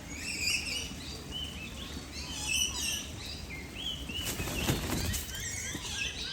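Many small birds chirping and twittering in quick, short calls that overlap one another. A brief burst of noise comes about four and a half seconds in.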